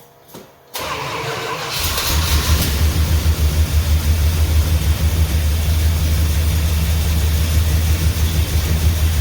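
A truck's 400 big-block V8 starting up about a second in, then running at a steady, even idle with a strong low rumble.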